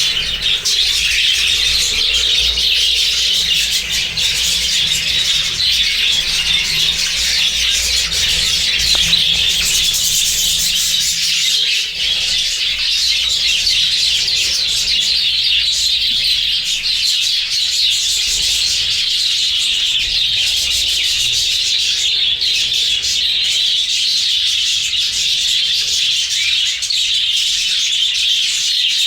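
A flock of budgerigars chattering and chirping continuously, many birds calling over one another at once.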